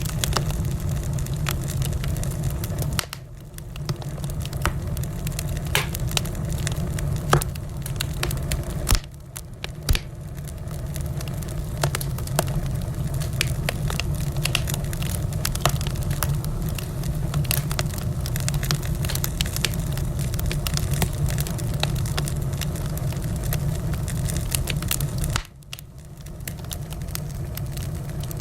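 Wood fire crackling in a fireplace: many sharp pops and snaps over a steady low roar. The sound dips briefly three times, near the start, about a third of the way in and near the end.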